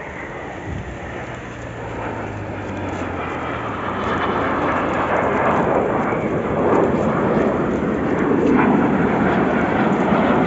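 Military jet aircraft flying past, a rushing roar that grows steadily louder.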